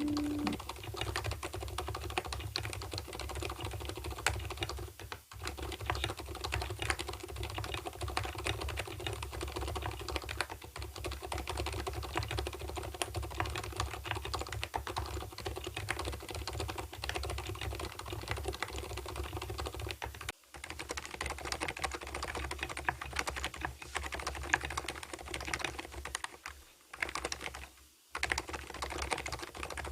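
Continuous fast typing on an Mstone Purpler keyboard with fully lubed 38 g silent Milky switches and PBT keycaps, the keystrokes running together in a dense patter with a few brief pauses.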